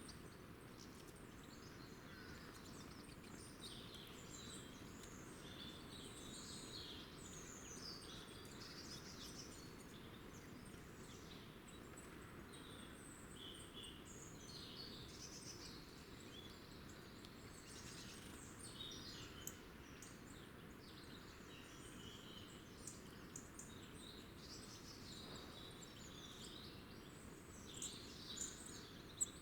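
Small birds chirping and twittering faintly, many short calls one after another, over a steady low background hum.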